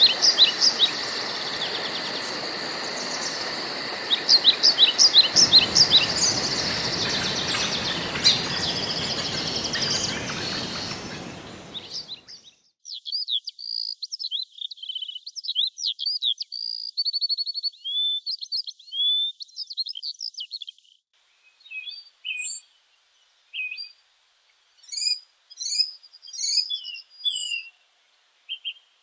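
Woodland birds singing and chirping over a steady forest background hiss with a fast, high-pitched pulsing. About twelve seconds in, the background stops abruptly, leaving only scattered bird calls.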